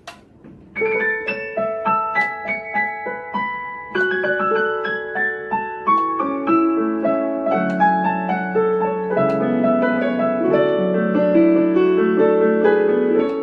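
Yamaha P-225 digital piano playing a piano demo piece: a light melody of struck notes begins just under a second in and grows into a fuller texture with sustained chords in the lower range from about four seconds on.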